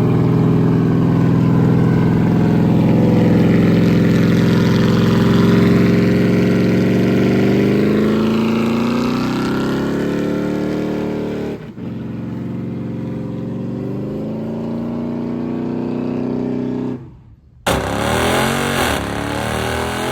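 A car engine held at high revs with a steady pitch, sagging and climbing again about halfway through. The sound cuts off abruptly twice, and after a brief gap near the end a different stretch of revving begins.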